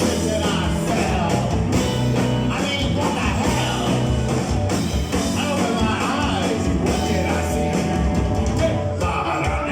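Rock band playing live and loud, with a singing voice over electric guitar, bass and drums.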